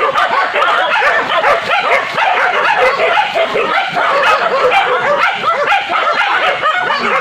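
A pack of village dogs barking and yelping all together, many overlapping calls at once, as they bay at a wild boar.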